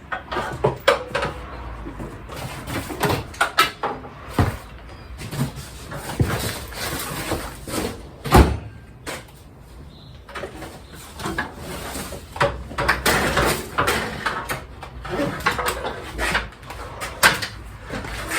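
A ladder being pulled out and set up: a string of clattering knocks, scrapes and rattles, with one loud bang about eight seconds in.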